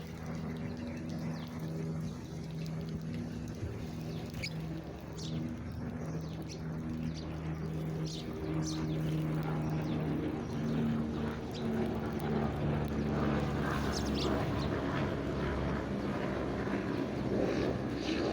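Scattered short, high bird chirps over a steady low engine drone, which grows louder from about halfway through.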